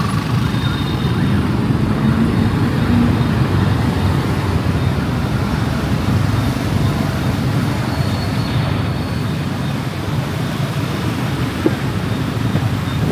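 Steady engine and road noise of a motorbike ride through city traffic, with one short click near the end.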